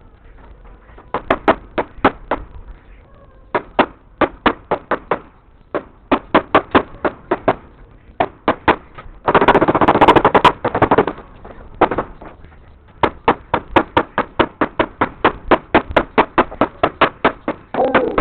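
Runs of rapid sharp knocks, about five or six a second in bursts with short pauses, and a denser rattling stretch of about two seconds near the middle.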